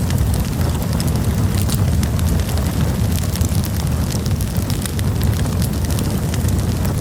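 Campfire burning: a steady low rumble with frequent sharp crackles and pops from the burning wood.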